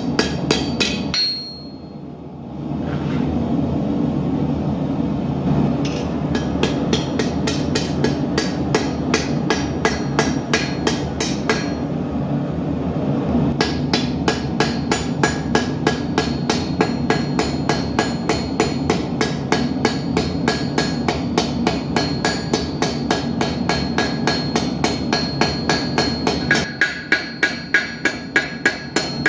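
Hand hammer forging hot steel on an anvil, drawing out an arrowhead: quick, steady blows, several a second, over the steady roar of a gas forge. The hammering pauses briefly about a second and a half in, and near the end the roar drops away and the blows ring out louder.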